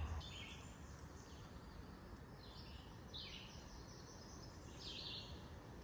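Faint songbird calls: a handful of short, downward-slurred chirps spaced a second or so apart, over a soft steady background hiss of the woods.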